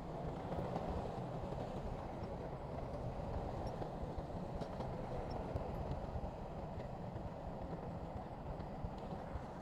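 Bulldozer's diesel engine running steadily under work, a low, even rumble.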